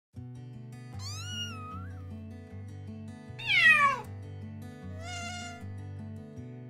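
Kitten meowing three times over background music of low held notes: a meow about a second in, a louder falling meow about three and a half seconds in, and a shorter one about five seconds in.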